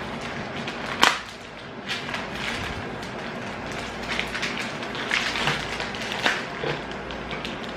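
Kitchen handling noises while a seasoning mix is dissolved in water: one sharp knock about a second in, then a run of soft, irregular noises from working the mix.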